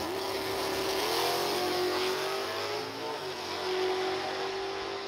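Third-generation Chevrolet Camaro drag car accelerating away down the strip at full throttle. The engine note climbs, then drops at a gear change a little after three seconds in.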